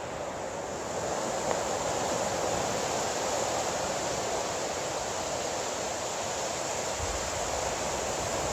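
Ocean surf washing steadily on a beach, a continuous rushing noise that swells slightly in the first second.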